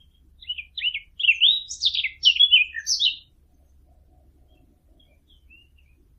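Song of the small songbird known to hunters as the fig bird (عصفور التين): a quick run of varied, warbling notes lasting about three seconds, then a couple of faint chirps.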